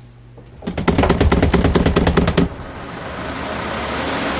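Spin dryer of a portable RV washing machine starting a spin: a rapid rattle of clicks, about ten a second, for roughly two seconds. Then the loaded spin tub's motor runs with a whir that builds steadily louder as it speeds up.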